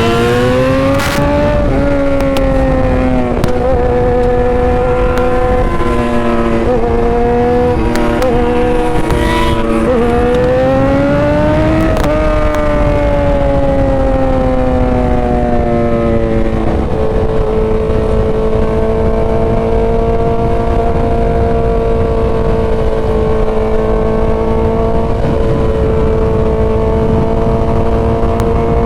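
Motorcycle engine running under way, its note rising and easing off twice in the first half, then holding steady for the rest, with wind rushing on the microphone throughout.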